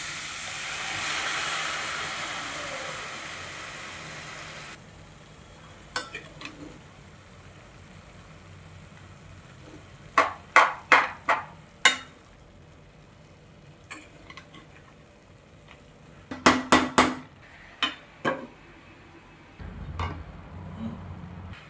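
Food sizzling in a hot pan, cutting off suddenly about five seconds in. Then scattered sharp clinks and knocks of utensils against pots and dishes, four in quick succession near the middle and a short cluster later.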